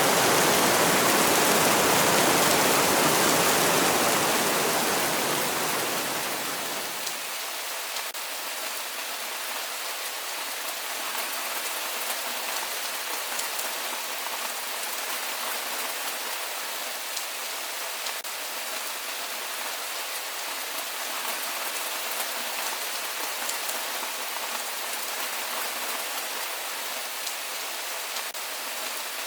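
Steady rain: a loud, full, deep rush for the first few seconds fades down around six seconds in, leaving lighter rain with fine drop ticks.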